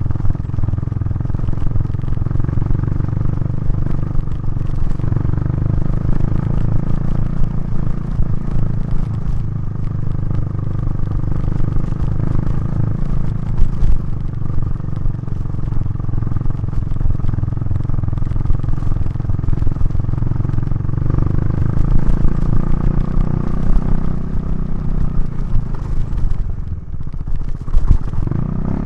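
KTM 390 Duke's single-cylinder engine running under way through a Remus exhaust, its note rising and falling gently with the throttle. Near the end the engine note drops off briefly, then quickly rises again.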